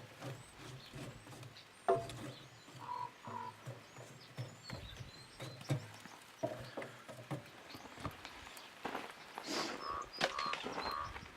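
Outdoor ambience with faint, scattered bird chirps and a few short calls, broken by several light knocks and handling noises.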